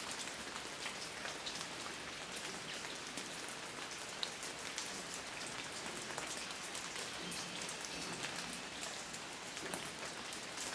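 Steady rain falling on a garden of shrubs and fallen leaves, with many single drops ticking sharply over an even hiss.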